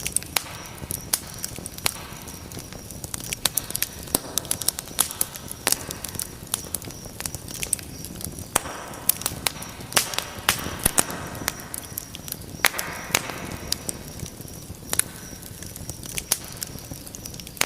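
Fire burning in a fireplace, crackling with frequent irregular sharp pops and snaps over a steady low rumble.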